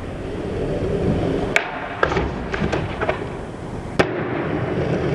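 Skateboard wheels rolling on concrete, then a run of sharp clacks and cracks of the board, the loudest about a second and a half in and another near four seconds in.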